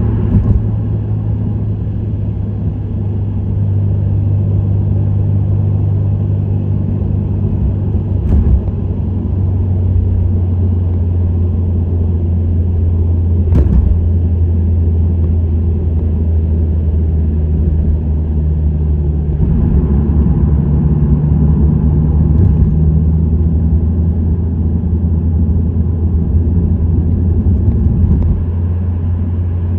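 Subaru WRX STI's turbocharged 2.0-litre flat-four cruising at steady speed through an STI Performance muffler, a continuous low exhaust drone mixed with road noise. The drone's tone shifts slightly a few times as the throttle changes. There are two short sharp knocks, one about 8 seconds in and one about 14 seconds in.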